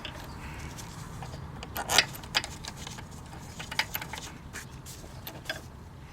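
Scattered light clicks and knocks of parts being handled and fitted by hand as the air intake and its bracket go back into a car's engine bay, the loudest knock about two seconds in.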